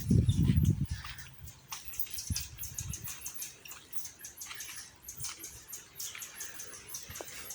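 Dry leaves and twigs crackling and rustling in a quick, irregular patter of small snaps. Heavy low thuds fill the first second.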